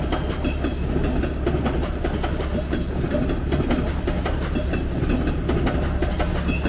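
TTC Line 2 subway train running past, its wheels clattering over the rails in many quick clicks above a steady low hum.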